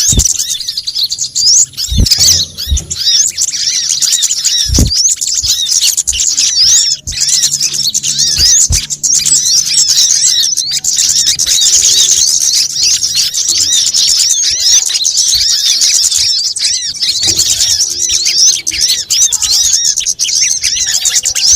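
Bird-lure recording of small songbirds such as sunbirds: a dense, unbroken chorus of rapid high-pitched chirps and twitters from many birds at once. A few low thumps come through about two and five seconds in.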